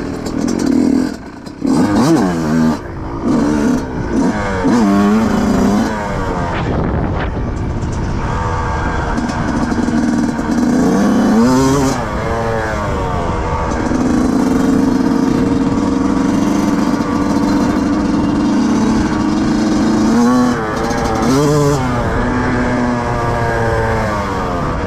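Yamaha YZ125 two-stroke single-cylinder motocross engine being ridden hard, its pitch rising and dropping sharply several times in the first few seconds, again about halfway and near the end, with long steady stretches at high revs in between.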